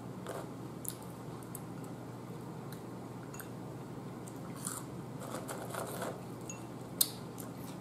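Close-up chewing and mouth sounds of a person eating crinkle-cut french fries, with small scattered clicks and one sharper click about seven seconds in, over a steady low hum.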